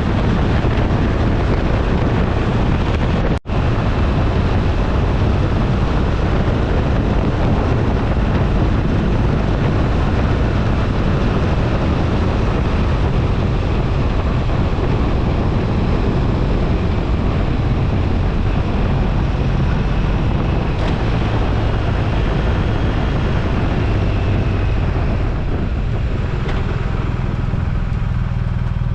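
Wind rushing over the microphone while riding a BMW R1250RT motorcycle, its boxer-twin engine running underneath. A brief dropout about three seconds in; near the end the wind noise eases, leaving mostly the engine's low sound.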